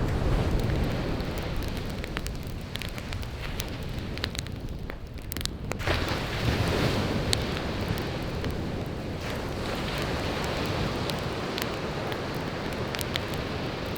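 Wood campfire crackling with scattered sharp pops, over the continuous wash of sea waves breaking on the shore. The surf swells up loudly about halfway through.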